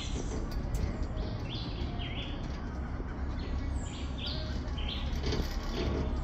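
Birds chirping: many short, falling notes in quick, irregular succession, over a low steady rumble.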